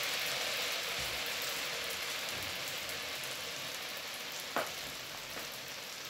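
Pandan cucur batter deep-frying in hot oil in a steel wok: a steady sizzle that slowly fades. A brief knock about four and a half seconds in.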